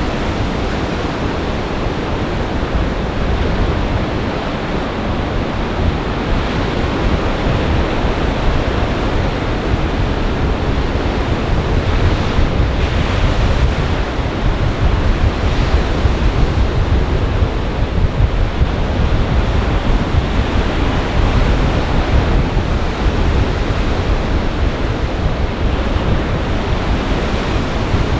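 Storm waves on a large lake breaking in gale-force wind: a steady rushing noise, with wind buffeting the microphone and adding a heavy low rumble.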